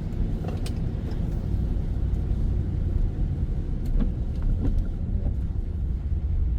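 Steady low road and engine rumble heard from inside a moving car, with a couple of faint light ticks.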